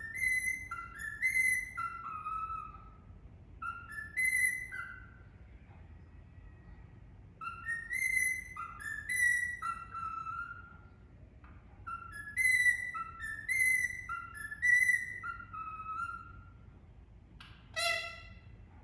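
Indian ringneck parakeet whistling a tune in phrases of clear stepped notes with short pauses between them, and a short harsher call near the end.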